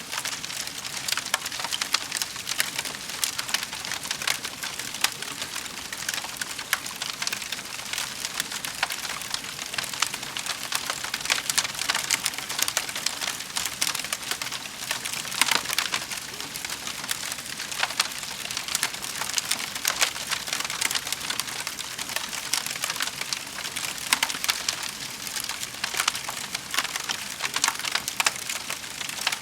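Wood fire crackling steadily in a fireplace, a dense run of small snaps over a soft hiss.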